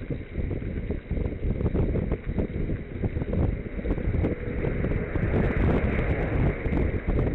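Wind buffeting the microphone while cycling: a steady low rumble with frequent small knocks and rattles.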